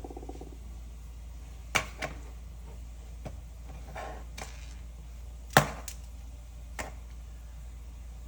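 Plastic Lego bricks being handled and pressed together: a handful of sharp clicks and knocks at uneven intervals, the loudest about five and a half seconds in.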